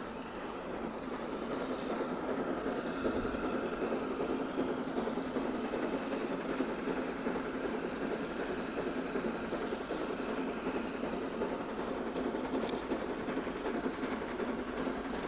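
Train running steadily: a continuous rumble that grows a little louder over the first two seconds, with one short sharp click about three-quarters of the way through.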